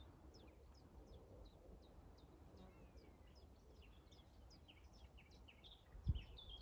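Faint songbird song: a rapid string of short, high, down-slurred chirps, denser toward the end, with a low bump about six seconds in.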